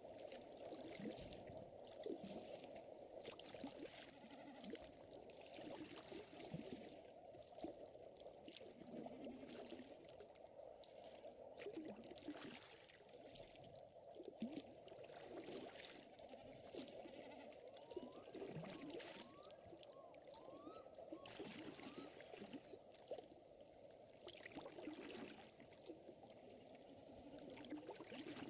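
Faint ambience of lake water lapping and trickling under the soft crackle of a wood fire. A few short rising chirps come about two-thirds of the way through.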